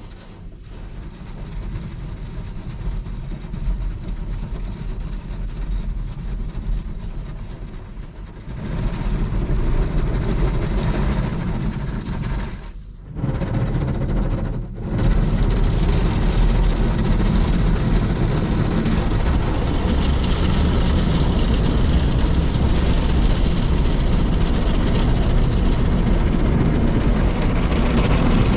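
Daifuku Fabrica automatic car wash machine running over a car: a steady rumble and rush of machinery and spray. It gets louder about a third of the way in, drops out briefly twice around the middle, then runs on louder and steady.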